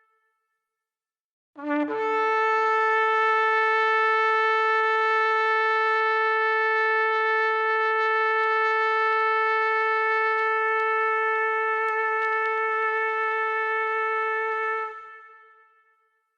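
Shofar sounding one long, unbroken blast of about thirteen seconds. It starts about a second and a half in with a brief lower note that jumps up to the main pitch, holds steady, and fades away with a short echo near the end.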